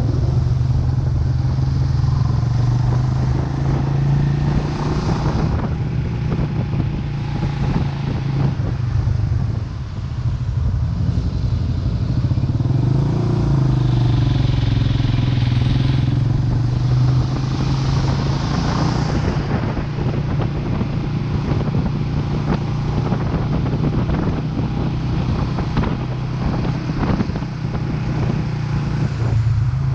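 Vento Lucky 7 motorcycle engine running while riding, its pitch shifting slightly with the throttle, with a short drop in level about ten seconds in.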